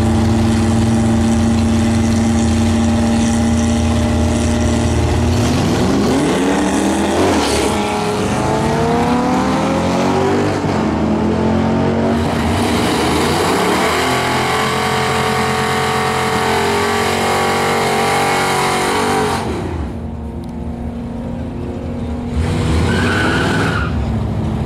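Fifth-generation Chevrolet Camaro SS's 6.2-litre V8 held at steady high revs with the rear tyres spinning in a burnout, then revving up and down repeatedly. About twenty seconds in the engine drops back and runs quieter, then picks up again near the end.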